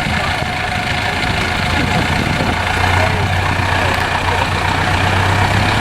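Heavy off-road trial truck's engine running steadily at low revs with a deep, even hum.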